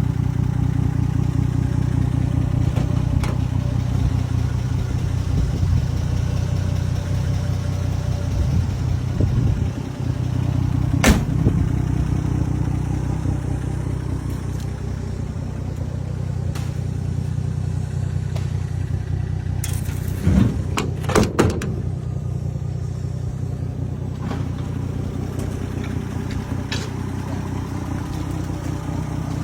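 Car engine idling steadily, with a single sharp knock about a third of the way in and a short burst of knocks about two-thirds of the way through.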